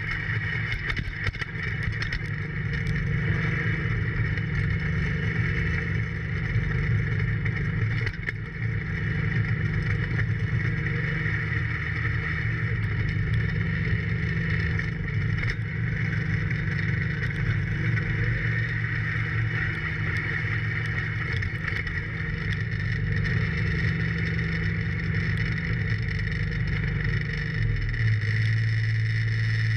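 John Deere 4110 compact tractor's diesel engine running steadily under work. Near the end its note drops to a lower, steady pitch.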